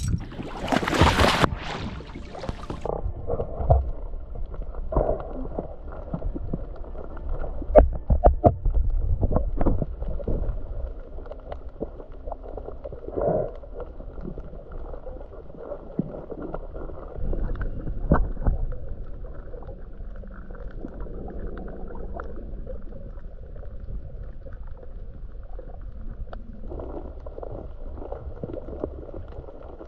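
A splash in the first couple of seconds, then muffled underwater sound heard through a camera housing: low sloshing with scattered knocks and bubbling.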